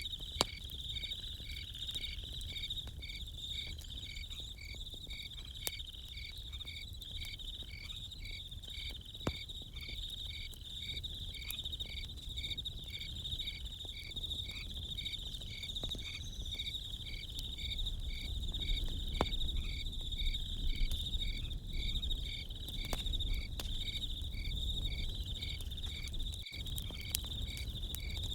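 Crickets chirping steadily: a pulsing chirp at about two a second over a continuous higher trill. Occasional sharp clicks and pops from a crackling campfire sound over a low rumble.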